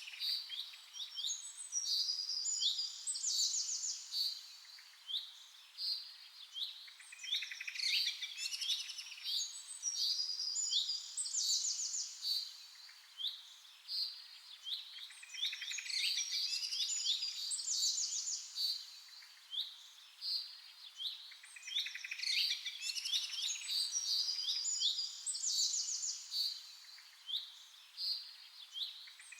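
Several small songbirds chirping and trilling together in quick, high, overlapping phrases. The chorus swells and fades about every seven seconds.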